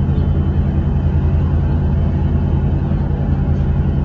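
Steady low engine drone, running at an even pitch throughout.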